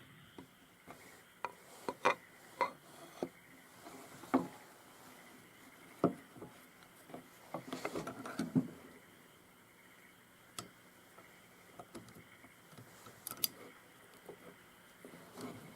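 Small metal carburetor parts and hand tools clicking, tapping and clinking on a work surface during disassembly, in scattered single knocks with a quick cluster about halfway through.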